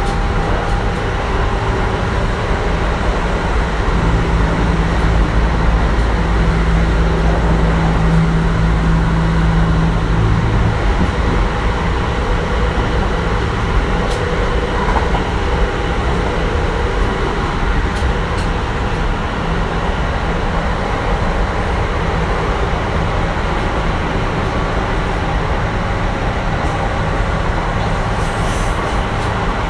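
Kintetsu 1420 series electric train (Mitsubishi GTO-VVVF inverter) running along the line: a steady rumble of wheels on rail with a low hum. The hum is a little stronger from about four to eleven seconds in.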